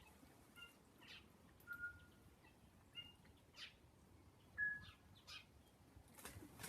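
Native forest birds calling: short clear whistled notes mixed with a few brief rough, scratchy calls, the loudest a single clear note about two-thirds of the way through.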